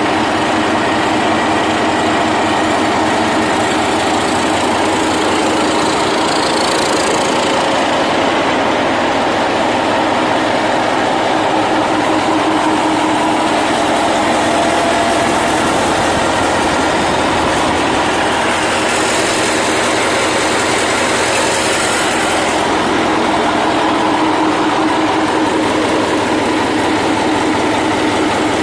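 An engine running steadily at idle, with a brief hiss about six seconds in and a longer one around twenty seconds in.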